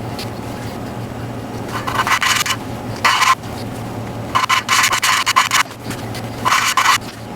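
Intake valve being lapped into its seat in the BMW 325xi's cylinder head with valve grinding compound, the suction-cup lapping stick twisted back and forth by hand: four bouts of gritty scraping, the longest about a second.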